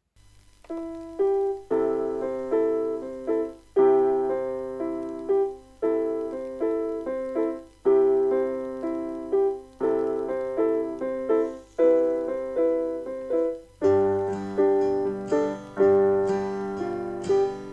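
Background piano music: a gentle phrase of struck, decaying notes repeating every two seconds or so, joined by a fuller accompaniment with bass about three quarters of the way through.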